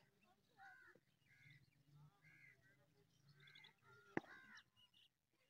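A bird calling faintly and repeatedly, short calls about once a second, with a single sharp click about four seconds in.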